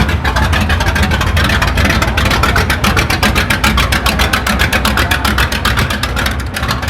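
A vehicle engine running loud with a rapid, even exhaust beat, easing off a little near the end.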